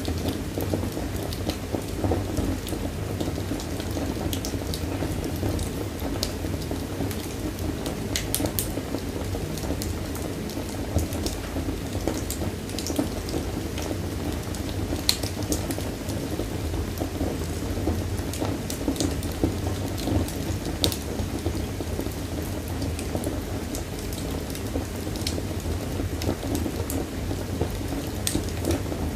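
Wood fire burning in a fireplace, crackling: a steady low rumble of the flames with many scattered sharp pops and snaps at irregular moments.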